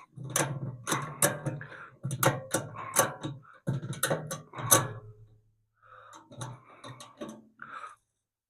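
A quick run of sharp knocks and clicks, about three or four a second, over a low hum, dying down after about five seconds into softer, scattered knocks.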